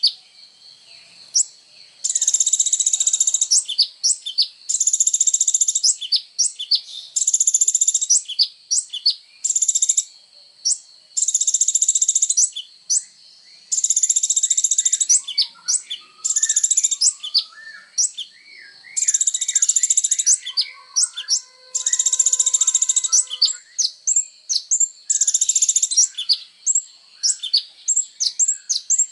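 Copper-throated sunbird (kolibri ninja) singing: dense, high, rapid trills about a second long, repeated every second or two, with sharp high chips between them. Lower, softer warbling phrases join in around the middle.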